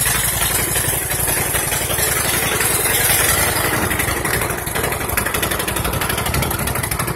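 A rebuilt 21 hp V-twin engine on a custom riding mower runs steadily at one speed, with a fast, even firing pulse. The throttle is not hooked up, so it holds a fixed speed with no revving.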